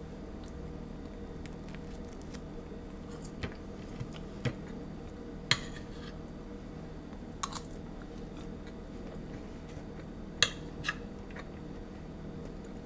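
Occasional light clicks and taps from kitchen handling, about seven in all and two of them louder, over a steady low hum.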